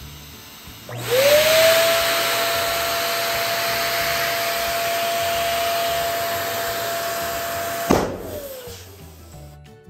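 Electric balloon pump switched on, its whine rising and then holding steady as it blows air into a balloon. Near the end it cuts off with a sharp snap and winds down with a falling whine.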